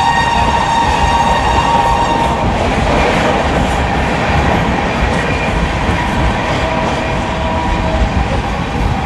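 Express train running at speed, heard from inside a passenger coach, with the wheels running over the track. A train horn sounds one long note that stops about two seconds in.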